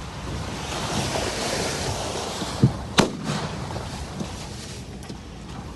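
Thunder Bird propane gas cannon firing: a rushing hiss for a couple of seconds, then a low thump and a single sharp bang about three seconds in.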